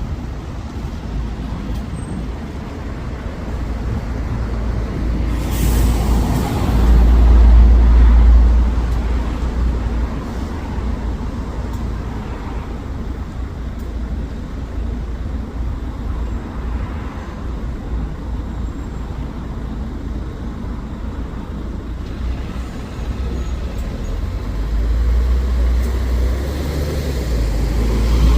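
Diesel bus engine running amid road traffic. There is a short hiss of air brakes about five seconds in, then the engine grows louder for a few seconds as the bus moves off.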